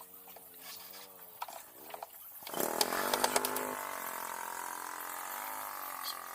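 A power tool starts up about two and a half seconds in and runs steadily with a pitched whine, with sharp clicks as it bites into the wood; a fainter wavering hum comes before it.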